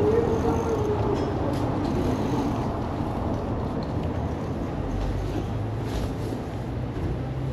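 Steady rumble of road traffic, with a faint engine tone that slowly falls over the first couple of seconds.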